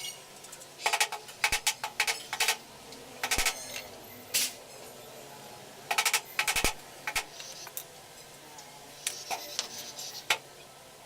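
Irregular clicks and light metallic clatter of tools and small parts being handled, coming in short bunches with pauses between.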